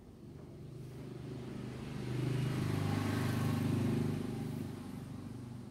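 A motor vehicle's engine passing by, swelling to a peak and fading away.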